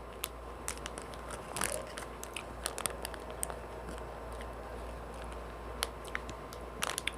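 Mouth sounds of someone chewing a mochi ice cream close to the microphone: scattered soft clicks and smacks, in small clusters, over a faint steady hum.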